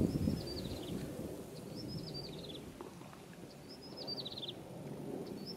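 A songbird singing the same short phrase four times, about every two seconds: a few high notes followed by a quick falling run of notes. Low rustling runs underneath.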